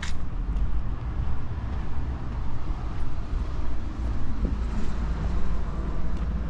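City street ambience: a steady low rumble of road traffic on an avenue, with a sharp click right at the start.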